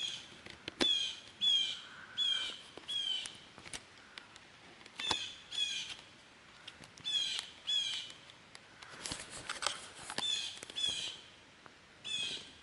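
A bird calling over and over in short falling notes, often in pairs, with a few sharp clicks between the calls.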